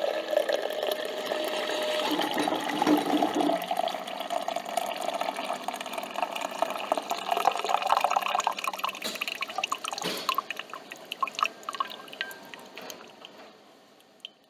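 Coffee machine dispensing coffee into a cup: liquid pouring and dripping, tapering off over the last few seconds.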